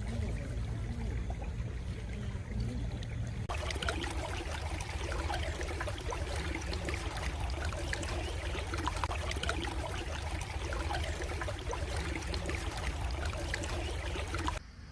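Stream water trickling and splashing, with a steady low rumble underneath. About three and a half seconds in it turns abruptly to a busier, brighter trickle, and it drops off suddenly near the end.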